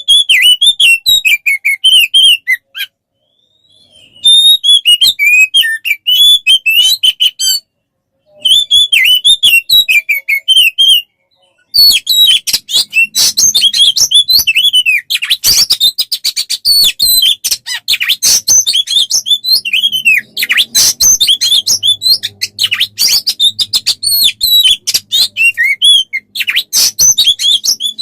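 Oriental magpie-robin singing loudly: rapid, varied warbling and chattering phrases broken by short pauses, then unbroken dense song with sharp clicking notes from a little before halfway on.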